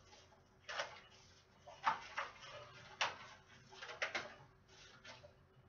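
Cardboard and paper box contents being handled: a string of short rustles with a few light taps, about seven in all.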